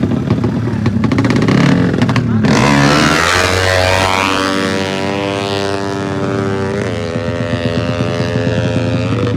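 Racing motorcycle engine accelerating hard: over a low engine rumble, its revs climb steeply about two and a half seconds in and hold high, with a short dip and recovery near seven seconds in, like a gear change.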